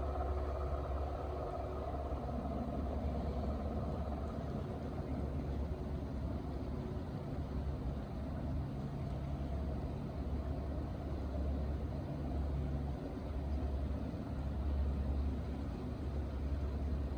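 Steady low mechanical rumble that swells and dips slightly, with a faint hiss over it.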